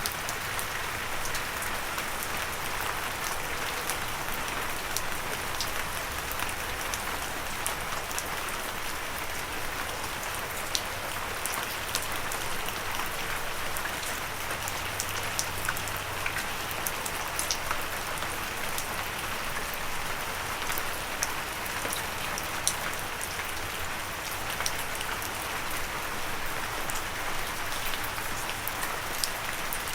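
Steady gentle rain falling on a surface, an even patter with many individual drop ticks scattered throughout; no thunder.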